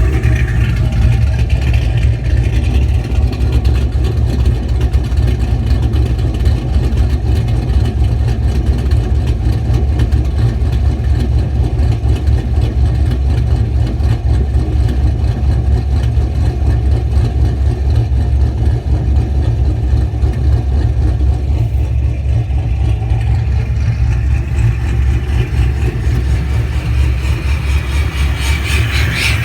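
2000 Chevrolet Silverado's 6.0 V8 with a Brian Tooley Racing Stage 3 camshaft idling steadily with a deep exhaust note. The idle sits only a little above stock, about 50 to 80 rpm higher by the owner's estimate.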